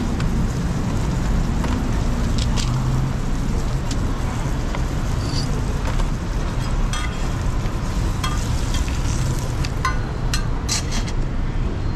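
Roti frying in oil in a flat griddle pan, sizzling steadily, with sharp clicks and taps of a knife and metal spatula that come more often in the second half, over a steady low traffic rumble.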